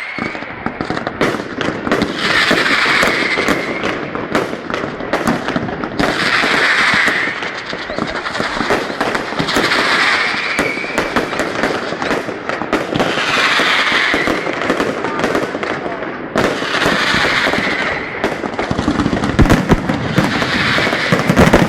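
Fireworks going off in dense, continuous crackling volleys of bangs, with a louder hissing rush coming back about every four seconds.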